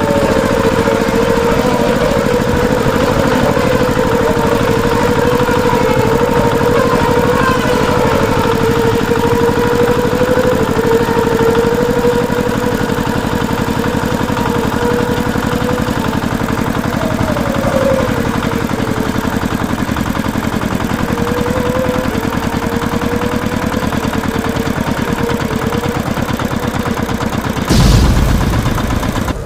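A small motor running continuously with a steady hum that wavers slightly in pitch, as from the motor of a miniature toy vehicle. A short, louder burst comes near the end, then the sound cuts off.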